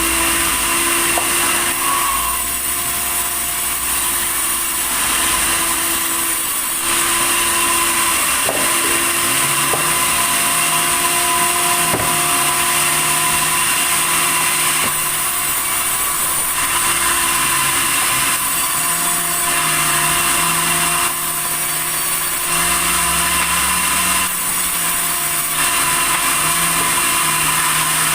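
Sawmill saw running and cutting red tasak timber: steady machine noise with a high hiss, its tone and load shifting every few seconds.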